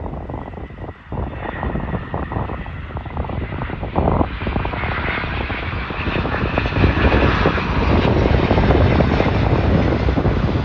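Jet airliner's engines, a rumbling, crackling roar that grows louder as the aircraft passes close by.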